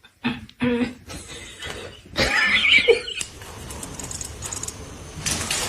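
Cat meowing: two short meows, then a longer, wavering, higher-pitched meow about two seconds in. After about three seconds a steady hiss-like background takes over.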